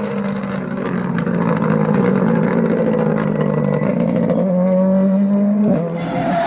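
Ford Fiesta R5 rally car's turbocharged four-cylinder engine running hard under load, its pitch holding and slowly climbing, with a rapid crackle over it. Near the end the pitch drops suddenly as the engine comes off the throttle or changes gear.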